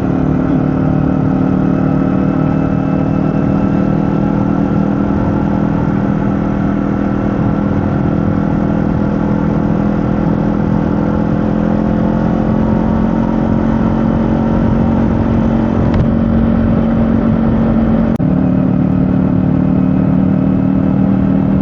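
Kawasaki Z500 motorcycle's parallel-twin engine running at a steady pitch, with a slight change in tone near the end.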